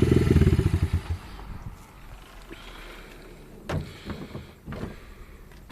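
125cc pit bike engine running, then dying away about a second in, followed by a few faint knocks.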